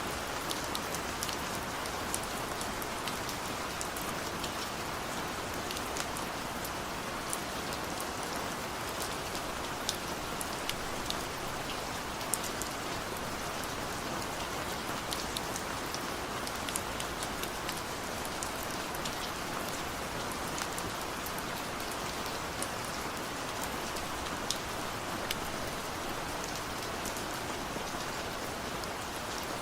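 Heavy rain falling steadily: a dense, even hiss with many sharp ticks of drops striking a surface scattered through it.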